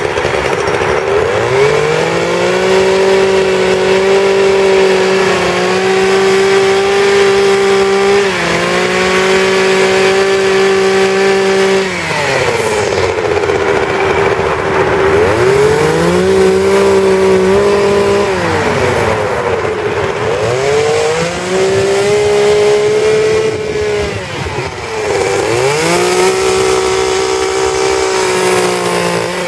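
Two-stroke chainsaw revved up and held at high speed for several seconds at a time, dropping back toward idle several times between.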